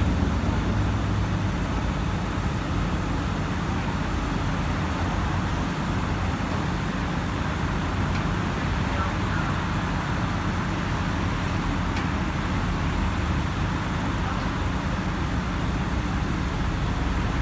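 Diesel engines of heavy construction equipment (excavators and loaders) running steadily, a constant low engine noise with no sharp knocks or clanks.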